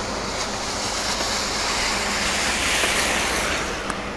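A car driving past on a wet road: the hiss of its tyres on the wet surface swells to a peak about three seconds in, then fades away.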